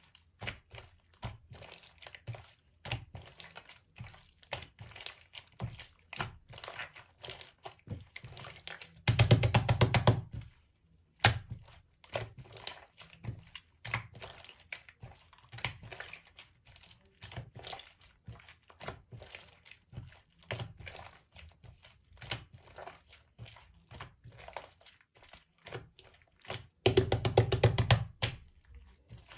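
Slime being kneaded and pressed by hand while clay is mixed in, making irregular sticky clicks and pops. Twice, about nine seconds in and again near the end, there is a louder burst of rapid crackling lasting a second or so.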